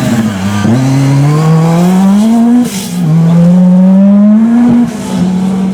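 Rally car engine accelerating hard under load, rising in pitch through the revs with a sudden drop at an upshift about halfway through. It then climbs again and shifts a second time near the end.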